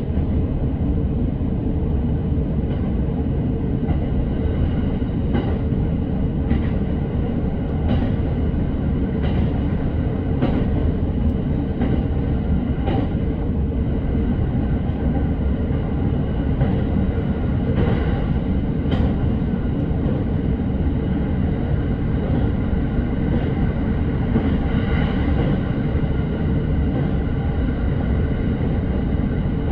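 Electric commuter train running at speed between stations, heard from inside the carriage: a steady low rumble with faint clicks from the wheels on the rails every second or so.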